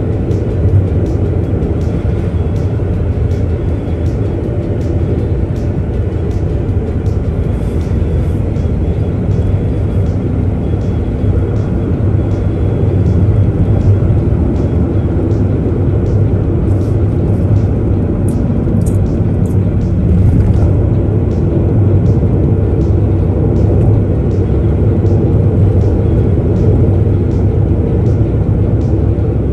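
Steady road noise of a car driving, heard from inside the cabin: a continuous low rumble of tyres and engine that runs on without change. A faint, high tick repeats evenly about one and a half times a second.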